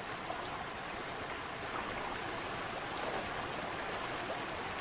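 Steady rushing wind of a snowstorm blizzard, an even noise without any tone.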